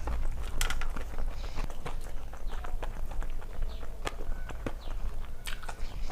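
A person chewing and eating a meal of rice, dal and fried fish close to the microphone: many short, irregular wet clicks and crackles of mouth and food.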